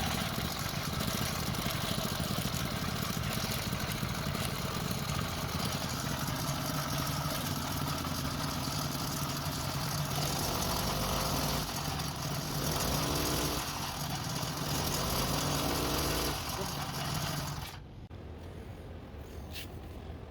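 Small engine of a motorized bicycle running steadily, rising briefly in pitch twice near the end, then dropping away sharply.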